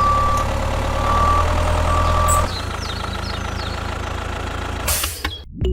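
Heavy vehicle engine running steadily, with three short high beeps over the first two seconds; the engine drops in level about two and a half seconds in, and a short burst of noise comes near the end before it cuts off.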